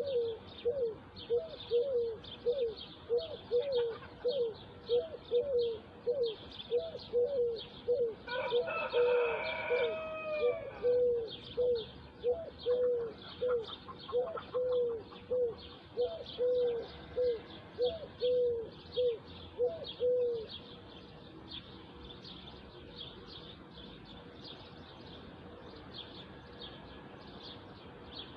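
Birds calling: a low hooting note repeated about twice a second for some twenty seconds, then stopping, over steady high-pitched chirping. A longer call with several pitches stands out about eight seconds in.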